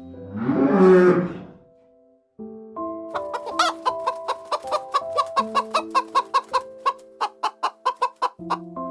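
A chicken gives one loud call lasting about a second and a half. After a short pause, a light tune with quick, evenly repeated chime-like notes plays.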